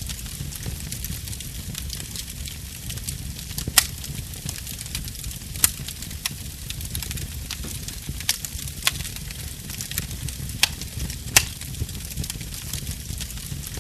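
Wood fire burning: a steady low rumble of flames under a constant fine crackle, with about six sharp pops from the burning wood scattered irregularly through it.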